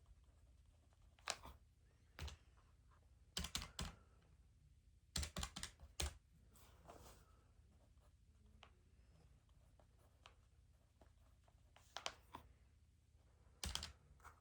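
Keys being pressed in short, irregular clusters: single clicks, then quick runs of four or five, separated by pauses.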